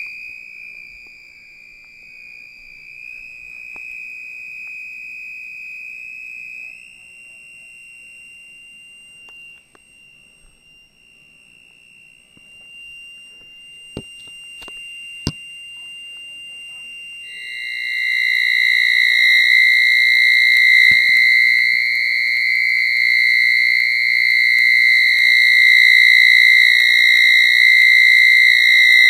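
1980s microwave oven giving off a continuous high-pitched electronic tone, which the owner blames on a power blackout. The tone steps slightly higher about seven seconds in, and from about seventeen seconds it changes to a louder, somewhat lower tone that holds on. Two sharp clicks come about fourteen and fifteen seconds in.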